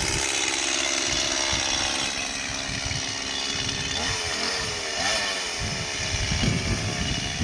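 Mini chainsaw running steadily, its pitch wavering about halfway through as it meets load, with low irregular knocks near the end.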